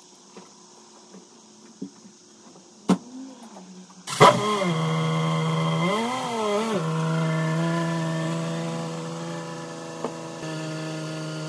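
Lotus Exige 380's supercharged 3.5-litre V6 starting with a sharp flare about four seconds in after a single click. It gives one brief rev about two seconds later, then settles to a steady idle as the car rolls out. This is the first start on the newly fitted Alias23 induction kit, left idling to learn the new values.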